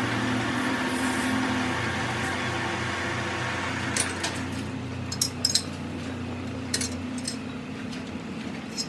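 A machine running with a steady hum, and a few sharp metallic clinks from about four to seven seconds in.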